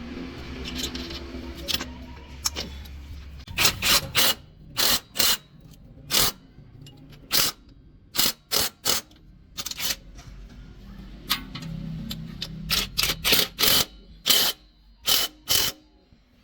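Hammer blows on metal, about twenty sharp ringing strikes coming irregularly, singly and in quick pairs.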